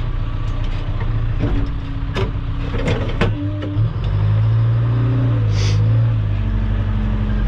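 A heavy work machine's engine running as it drives over ABC gravel, pulling harder and louder about four seconds in. Several sharp knocks and rattles come in the first half, and there is a short hiss later.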